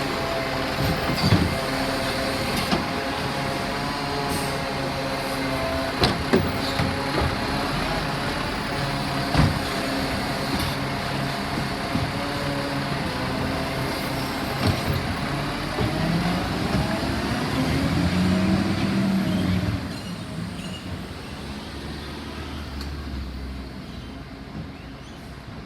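Garbage truck's diesel engine running with a steady pitched whine as bins are emptied, with several sharp clunks in the first ten seconds or so. Near the end the engine pitch rises and falls, then the sound drops away noticeably.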